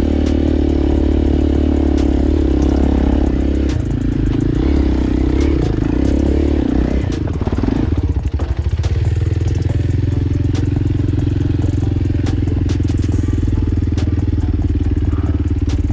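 Motorcycle engine running while riding, a steady engine note that shifts in pitch about four seconds in and dips briefly near the middle, like a throttle change, with scattered small clicks over it.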